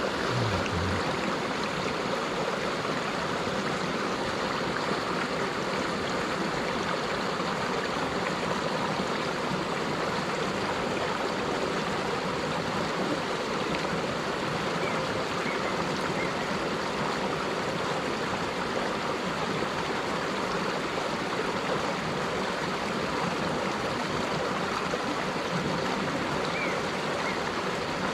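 Mountain stream water running steadily, an even rushing that doesn't change.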